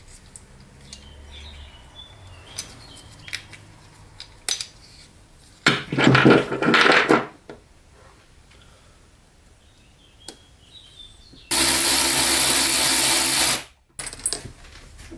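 Workbench tool noise: light clicks and knocks of parts being handled, with two loud bursts of a motorised tool, the first of about a second and a half a little over halfway, the second of about two seconds near the end, cutting off abruptly.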